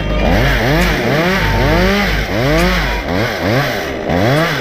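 Chainsaw engine revving up and falling back over and over, about twice a second, in a run of quick throttle surges.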